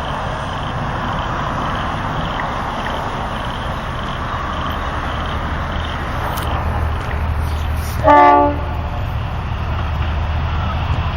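V/Line diesel train running with a steady engine drone and wheel-on-rail rumble. About eight seconds in it sounds one short horn blast, the loudest sound.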